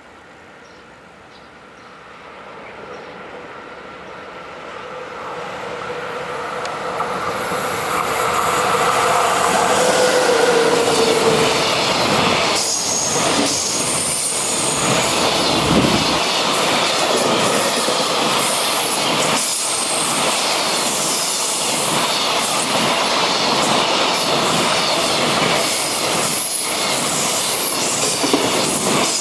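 Freight train hauled by an EF66 electric locomotive approaching and passing at speed. A rising rumble and a steady motor whine build as the locomotive nears, and it goes by about 12 to 16 seconds in. After that the wagons clatter rhythmically over the rail joints, with thin high wheel squeal on the curve.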